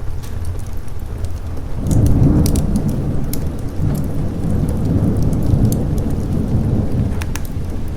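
A rolling thunder rumble that swells about two seconds in and carries on through, over steady rain. Scattered sharp crackles from a fireplace pop throughout.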